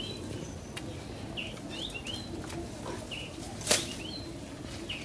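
Birds chirping in short, repeated calls, with one sharp impact sound about three and a half seconds in, the loudest thing heard.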